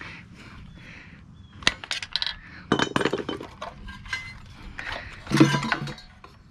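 Metal engine parts and tools clinking and clattering against each other as a small Tecumseh engine is taken apart, in several separate bursts with some ringing.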